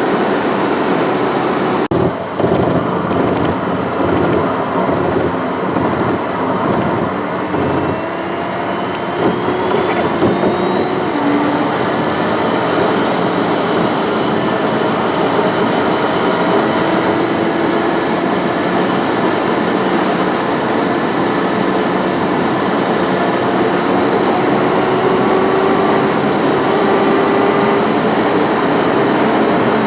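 Steady road noise of a car driving at highway speed: tyre and wind noise with a faint whine that slowly drifts in pitch. There is a brief dropout about two seconds in.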